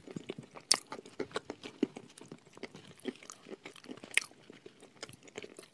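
Close-miked chewing and crunching of chalk and clay paste: a dense, irregular run of crisp crunches, with two louder crunches about three-quarters of a second and about four seconds in.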